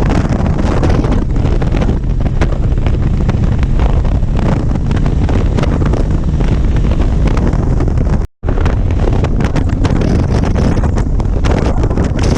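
Heavy wind buffeting on the microphone of a moving motorcycle, a dense steady rush with the bike's running underneath. It cuts out for a moment about eight seconds in, then carries on the same.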